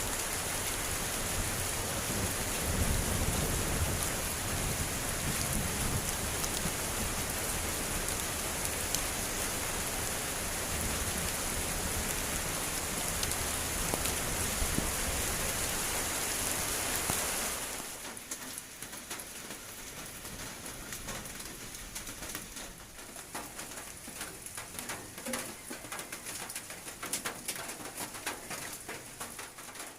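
Heavy rain pouring steadily, with a low rumble a few seconds in. About two-thirds of the way through it drops suddenly to lighter rain with scattered separate drips.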